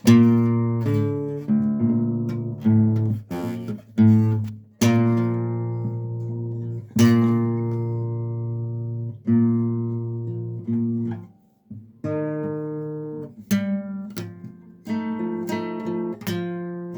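Acoustic guitar chords strummed one after another, each left to ring and fade, with a short break about two-thirds of the way through.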